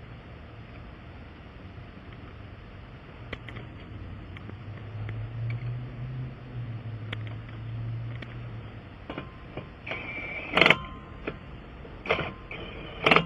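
Cordless impact wrench running lug nuts onto a spare wheel in several short whining, hammering bursts, the loudest about ten seconds in and at the end. A low steady hum comes before them.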